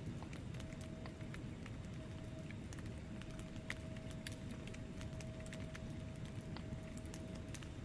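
Wood fire burning in a fireplace: a steady low rumble of the flames with many small, irregular sharp crackles and pops from the logs.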